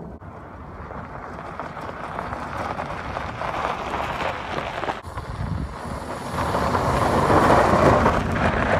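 2002 Nissan Pathfinder driving at speed, with road and wind noise buffeting the microphone and getting louder in the second half.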